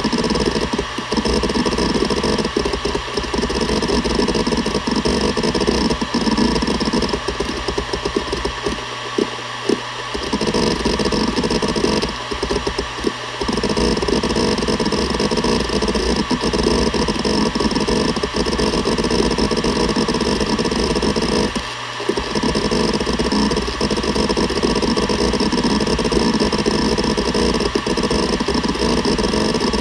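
Seagate Barracuda ES.2 ST31000340NS 7200 rpm hard drive spinning with a steady hum while its head actuator seeks in a rapid, continuous clatter. The clatter pauses briefly a few times.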